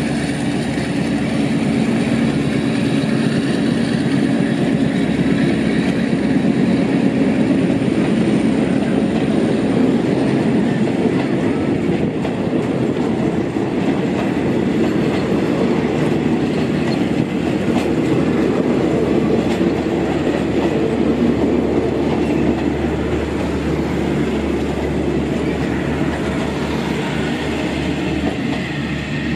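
A train running along the track with a steady, loud rumble, swelling slightly a few seconds in.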